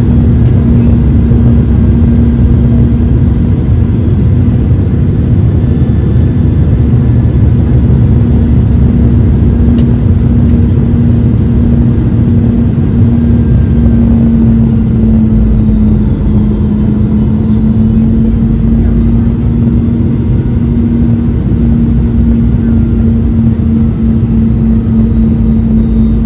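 Cabin noise inside a Boeing 717 near its tail-mounted Rolls-Royce BR715 turbofans: a loud, steady rumble with a strong engine hum that drops slightly in pitch about halfway through, and a faint high whine that sweeps down and back up.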